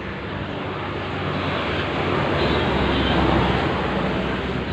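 Jigsaw running steadily, its blade sawing through multiplex plywood.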